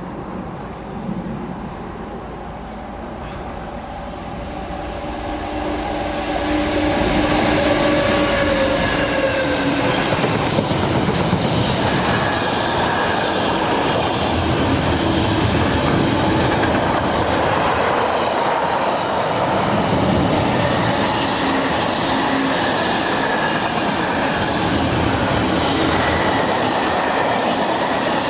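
Train on the line, growing louder over the first seven seconds or so as it comes close, then a steady rumble of wheels on rails with a high whine held over it.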